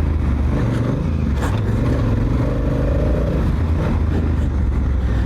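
Honda Africa Twin's parallel-twin engine running under way, its pitch rising a little near the middle as it pulls. There is a brief click about a second and a half in.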